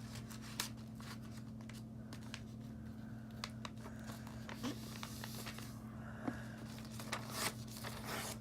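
A sheet of paper being folded and creased by hand: soft rustling with a few sharp crinkles, over a steady low electrical hum.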